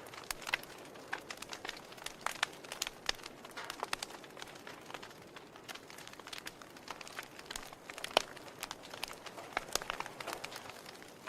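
Wood fire burning in a fireplace, the logs crackling with irregular sharp pops and snaps over a soft steady hiss; the loudest pop comes about eight seconds in.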